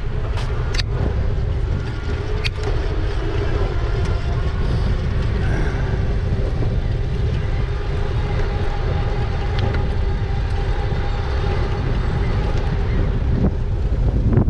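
Wind buffeting the microphone of a moving e-bike, a steady low rumble with a faint steady hum beneath it and a few sharp clicks in the first few seconds.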